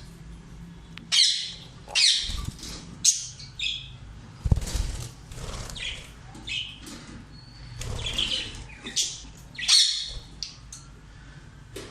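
Captive parrots calling: a series of short, loud, screechy calls, roughly one a second, over a low background rumble.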